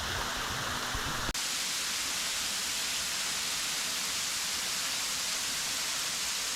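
Creek water cascading over rocks at a small waterfall: a steady rushing hiss, broken once by a short dropout about a second in.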